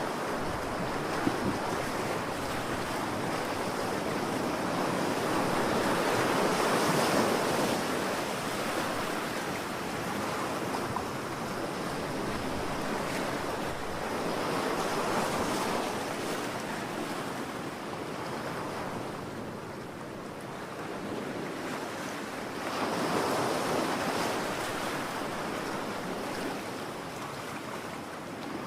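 Ocean waves breaking and washing on a shore, a steady rush that swells and eases as each wave comes in, with louder swells about every eight seconds.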